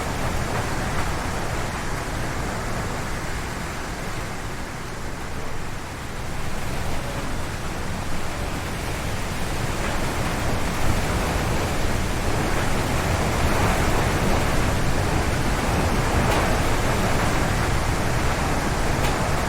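Strong wind howling and gusting through forest trees, a dense rushing noise. It eases a little about five seconds in, then builds stronger from about ten seconds on.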